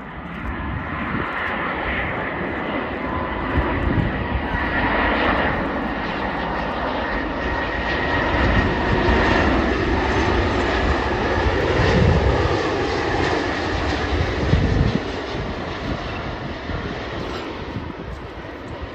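Jet airliner's engines on landing approach, a loud rushing noise that swells, peaks as the plane passes, then fades, with a steady high whine running through it and a low rumble underneath.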